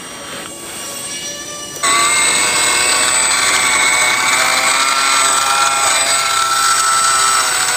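Electric ducted fans of an RC A-10 Warthog model running with a steady high whine of several tones; about two seconds in it jumps abruptly louder and higher, then holds steady.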